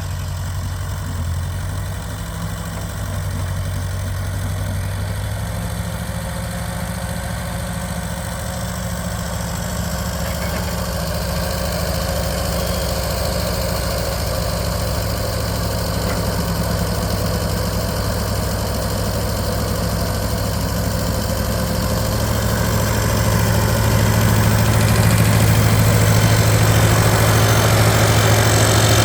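Ferguson TO-20 tractor's four-cylinder engine running steadily at low speed, growing gradually louder, loudest near the end.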